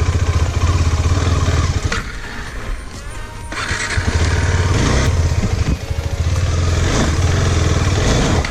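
KTM 390 Adventure's 373 cc single-cylinder engine pulling at low revs under way. It drops off about two seconds in and picks up again about a second and a half later, a demonstration of the weak pull between 2000 and 3000 rpm that the rider says makes the bike feel ready to stall.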